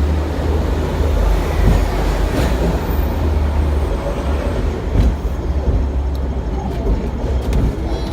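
Hong Kong double-decker tram running along its rails, heard from on board: a steady low rumble with a few brief knocks from the wheels and car body.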